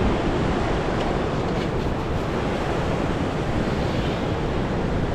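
Ocean surf washing steadily with wind buffeting the microphone.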